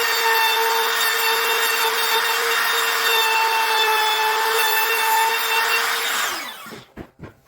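Electric woodworking power tool running at a steady speed with a high whine, then switched off about six seconds in and winding down.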